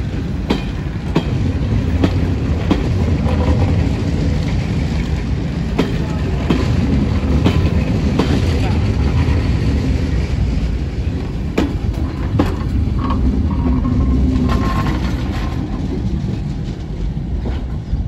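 Coaches of a 3CEP electric multiple unit, hauled unpowered, rolling past at low speed: a steady rumble, with wheels clicking over the rail joints about once a second.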